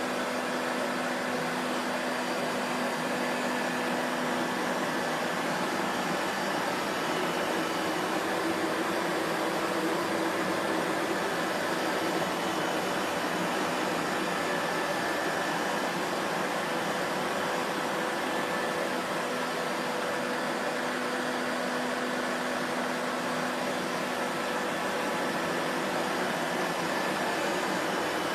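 Vacuum cleaner running steadily: a continuous rush of air with a faint, even motor hum in it.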